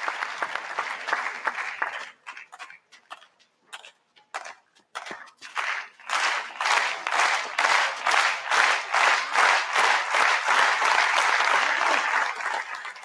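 Tennis crowd applauding: the applause thins to a few scattered claps about two seconds in, then swells again about six seconds in into loud, dense clapping that dies away near the end.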